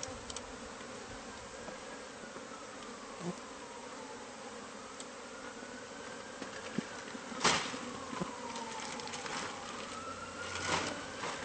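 Honeybees from a disturbed wall hive buzzing steadily in a dense swarm. A sharp knock about halfway through and another near the end, with a faint wailing tone that slowly rises and falls behind the buzz.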